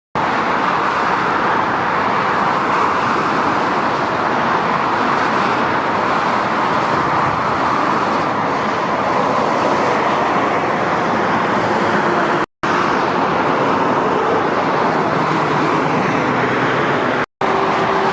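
Steady roar of fast motorway traffic, trucks and cars passing with tyre and engine noise blended together. The sound drops out for an instant twice, about two-thirds through and again near the end.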